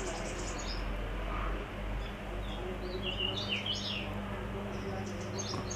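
Birds chirping in short, high calls now and then, over a steady background hiss and a low electrical hum.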